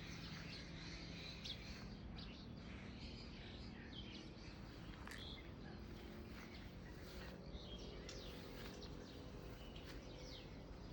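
Birds chirping and calling faintly, many short scattered notes, over a steady low background noise.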